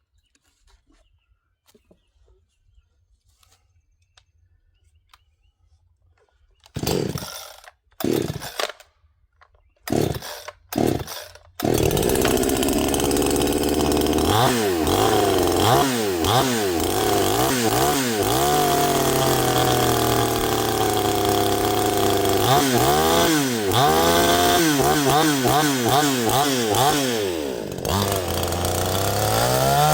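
Neotec 62cc two-stroke chainsaw being pull-started: a few short bursts about seven to eleven seconds in, then it catches and keeps running, its engine speed rising and falling over and over.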